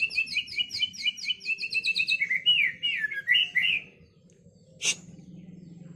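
White-rumped shama (murai batu) singing mimicked phrases: a fast run of repeated high chips, about eight a second, then slower slurred whistles that dip and rise, stopping about four seconds in. A single sharp click follows near the end.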